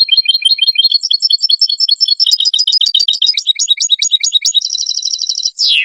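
European goldfinch singing a rapid, twittering song of quick high notes. Near the end it runs into a fast buzzy trill and finishes on one falling note.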